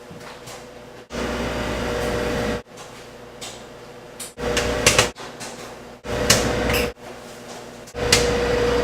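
Microwave oven running with a steady hum, heard in several short stretches that start and stop abruptly, with a few sharp clicks or knocks among them.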